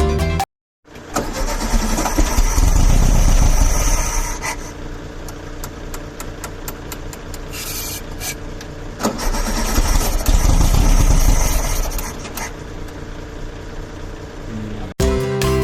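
1971 Volkswagen Beetle's air-cooled flat-four engine starting and running, louder for a few seconds twice and settling back between.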